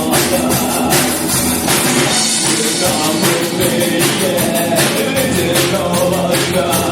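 Live rock band playing an instrumental passage: a drum kit keeps a steady beat with frequent cymbal hits under sustained melodic instrument lines.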